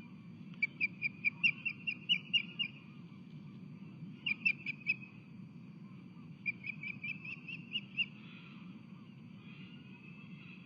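Osprey calling: three runs of quick, high, whistled chirps, about five a second, over a steady low background rumble.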